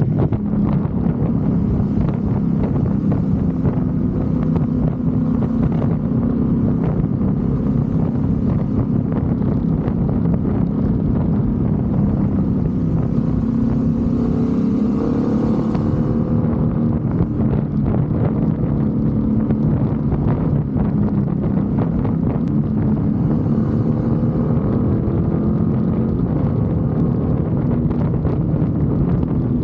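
BMW F 850 GS motorcycle's parallel-twin engine running steadily, its note rising in pitch twice (around the middle and again near the end) as the revs climb, with some wind noise on the microphone.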